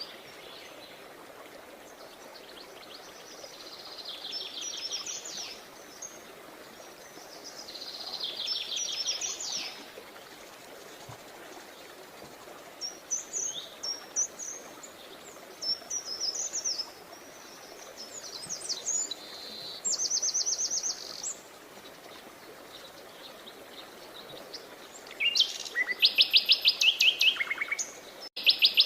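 Songbirds singing: rapid trills and short chirps in phrases a few seconds apart, louder and quicker near the end, over a steady hiss of background noise.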